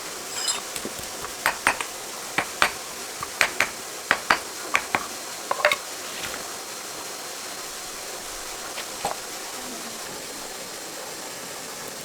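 Metal tools and parts clinking and tapping against each other, a quick run of a dozen or so sharp, ringing clicks in the first six seconds and one more later, over a steady hiss.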